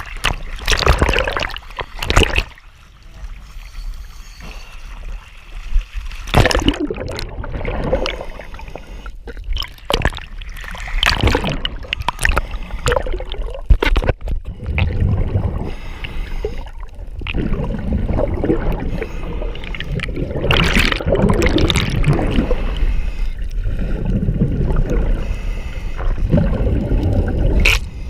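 Water splashing and sloshing against a small boat at sea, in irregular bursts. About halfway in, it gives way to a steadier low rumble with water noise.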